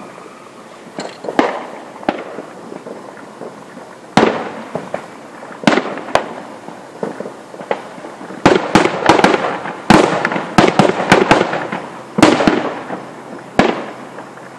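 Fireworks bursting overhead: separate loud bangs every second or two, then a rapid run of bangs for about three seconds, starting about eight seconds in. A last few single bangs follow, and each burst trails off in a short crackling decay.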